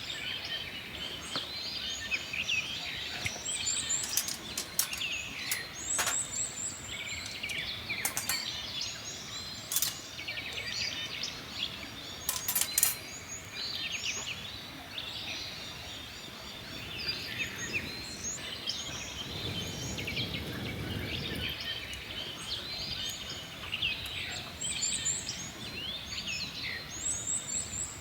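Small birds chirping and singing in a busy, overlapping chorus, with a few sharp clicks in the first half and a brief low rushing sound a little past the middle.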